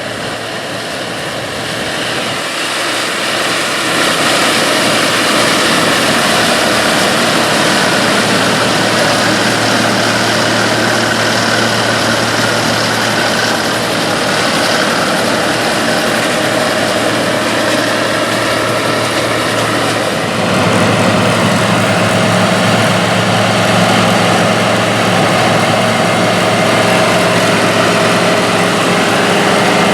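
Mid-1970s White 8600 Harvest Boss combine running at work, a steady heavy engine drone over the noise of its machinery. The sound swells over the first few seconds, and the engine note shifts and grows a little louder about twenty seconds in.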